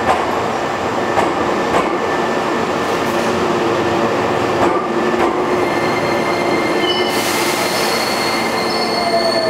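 Hankyu 9300-series electric train pulling out of an underground station: steady running noise with a few sharp clicks of the wheels over rail joints, then a high wheel squeal with a hiss starting about seven seconds in as the train leaves.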